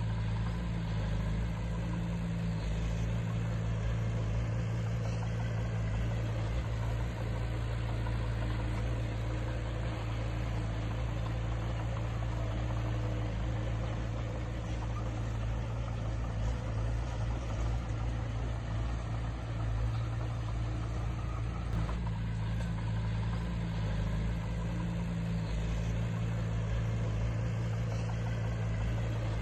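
Diesel engine of heavy earthmoving equipment running steadily at an even, low engine note.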